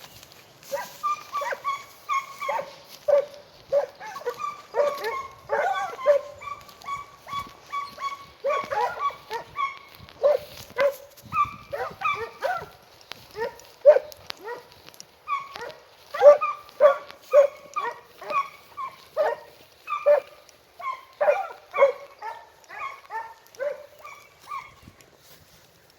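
A pack of segugio hounds baying: a dense run of repeated cries, about two to three a second, from several dogs overlapping at different pitches. This is the hunting cry hounds give while working a hare's scent.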